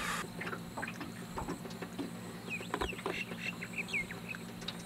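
Small birds calling in several short, quick chirps, most of them a couple of seconds in, over scattered faint clicks and a low steady hum.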